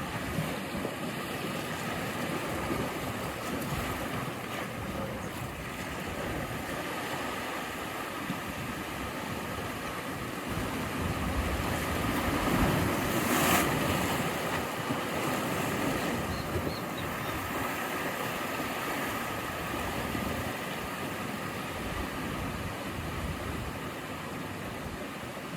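Sea waves breaking and washing on the shore in a steady rush, with one surge building to a peak about halfway through and then easing off.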